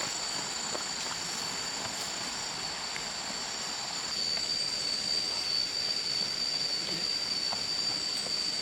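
Steady, high-pitched insect chorus holding two pitches, with a few faint clicks scattered through it; it swells a little about halfway through.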